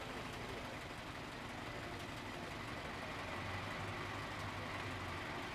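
A car engine running steadily, with a low hum that grows a little stronger about halfway through.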